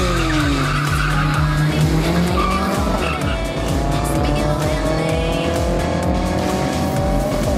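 Two small hatchback cars launching off a drag-strip start line and accelerating hard away, engine revs climbing and dropping back at gear changes about three seconds in and again near the end. Background music runs underneath.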